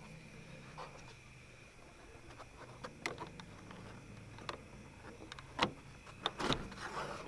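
Faint steady low hum with scattered sharp clicks and knocks, typical of plastic interior trim and fittings being handled inside a car; the loudest knock comes a little over halfway through.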